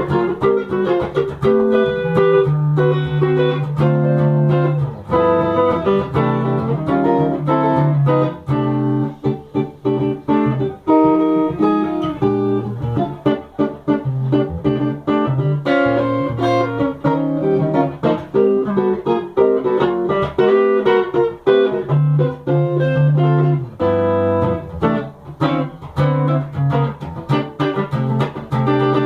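Instrumental guitar music: a plucked guitar playing a melody of many quick single notes over chords and held bass notes.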